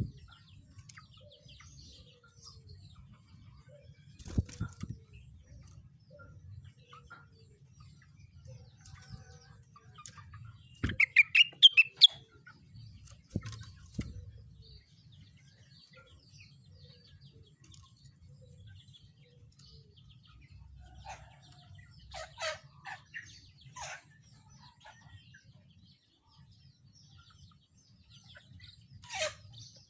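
Rengganis songbird giving scattered bursts of rapid chirping calls between quiet gaps, the loudest burst about a third of the way in, with a few sharp thumps such as wing flaps against the cage. A faint steady high whine runs underneath.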